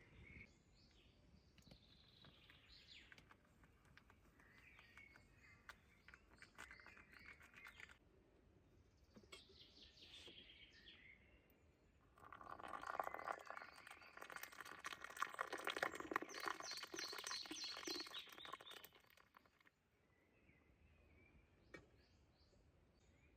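Birds calling and chirping in forest, faint, with a louder, busier spell of calls from about halfway through that stops suddenly.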